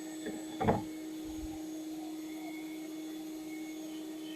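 Bee vacuum motor running steadily with an even hum, with one brief thump about a second in.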